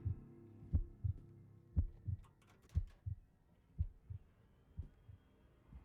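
Heartbeat sound effect: low paired lub-dub thumps at about one beat a second, fading toward the end.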